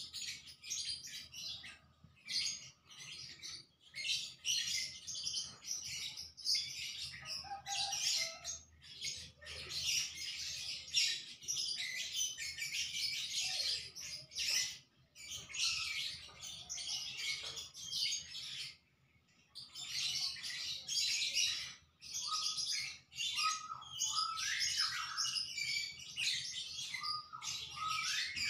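Small birds chirping in a dense, continuous chatter of high notes, with a few brief pauses and some lower, sliding notes near the end.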